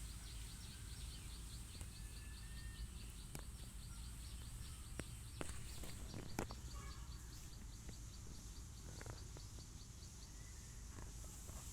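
Rural outdoor ambience: a steady low rumble under a high, thin chirp repeating about four times a second, which stops shortly before the end. A few sharp clicks fall near the middle.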